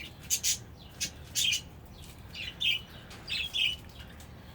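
Budgerigar chirping: a string of short, high calls, some in quick pairs, about seven in all.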